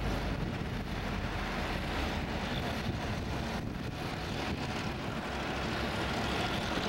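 Low, steady rumble of a diesel-hauled freight train moving slowly past, mixed with wind noise on the microphone.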